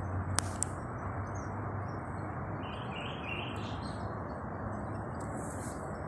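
Birds chirping over a steady low hiss of outdoor ambience, with two short sharp ticks about half a second in.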